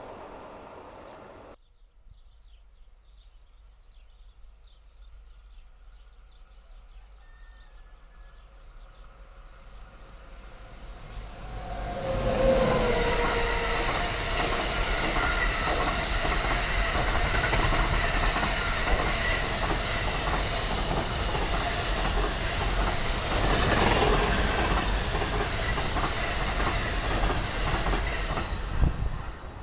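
A long freight train of covered wagons passing close by. The wheels clatter over the rails, quiet at first, then swelling about eleven seconds in and staying loud until the sound cuts off near the end.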